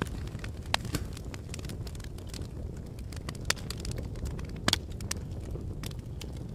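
Fire burning with a steady low rumble and frequent sharp crackles and pops, a few louder snaps among them.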